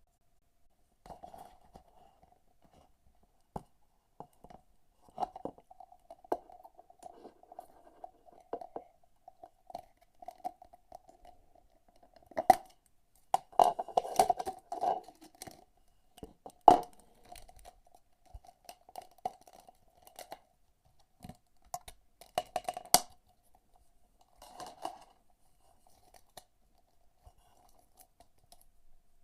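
Packaging being handled and torn open by hand: irregular crinkling, rustling and sharp clicks, with a few louder snaps about halfway through and again near the end.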